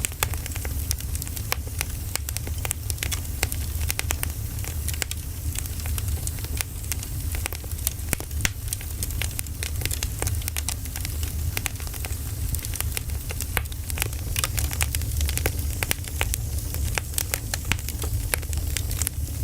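Wood fire burning: dense, irregular crackles and snaps of burning firewood over a steady low rumble.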